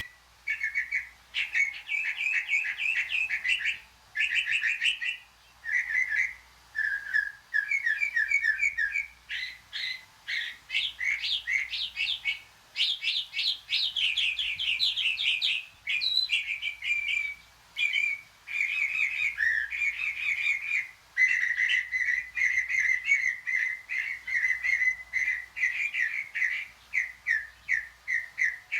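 A forest songbird singing a long, fast song: runs of rapid chirping and trilling notes in phrases, broken by short pauses.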